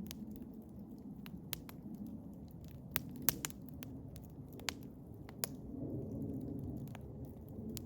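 Eastern hemlock wood fire crackling: irregular sharp pops, the loudest a little over three seconds in, over a steady low rumble.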